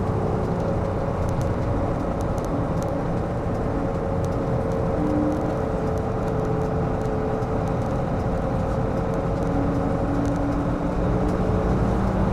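Engine and road noise heard from inside a moving coach: a steady drone with a held engine tone, and occasional light rattles.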